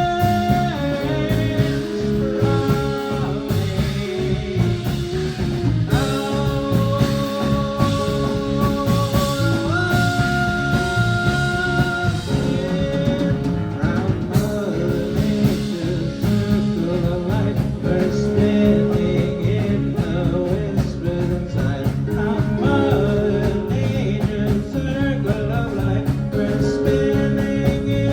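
Live rock band playing a song, with guitar and held melodic notes over a full rhythm section.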